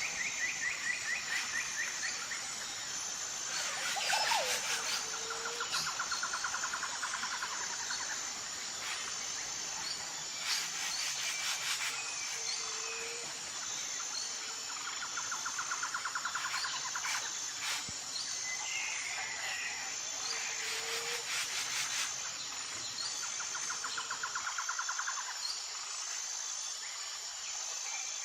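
Tropical forest ambience: a steady, high-pitched pulsing insect drone, with trilling bird calls that come back every few seconds and a few short, lower calls.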